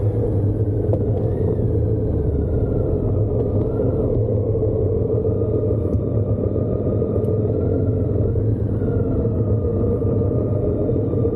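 Motorcycle riding at steady speed: a constant low rumble of wind and road with the engine's note drifting slowly up and down.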